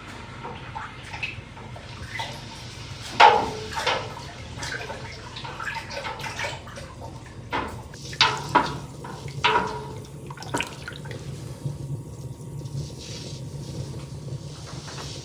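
Water splashing or dripping, with a series of knocks and clinks from objects being handled, the loudest a little over three seconds in and a cluster between about eight and ten seconds.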